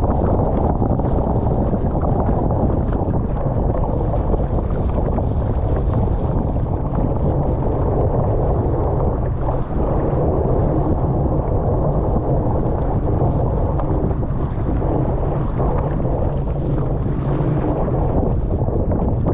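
Strong wind buffeting the microphone, a steady, loud low rumble, over the rush of wind-driven waves.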